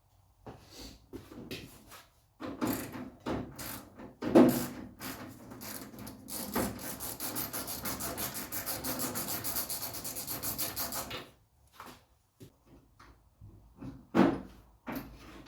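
Scattered knocks and clatter of metal parts being handled, then about five seconds of fast, even hand scraping strokes, roughly eight a second, on rusty door or hinge metal.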